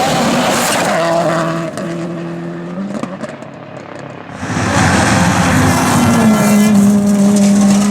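Rally car engines running hard at high revs as cars go by. The sound drops away for about a second past the middle, then a car comes in loud, its engine pitch stepping down once and holding steady.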